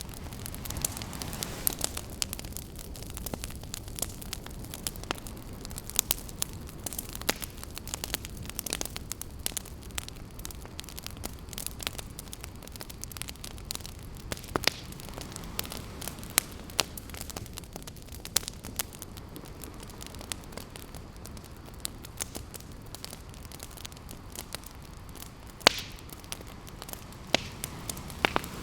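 Campfire wood crackling with frequent sharp pops, one louder pop near the end, over a steady low wash of ocean surf.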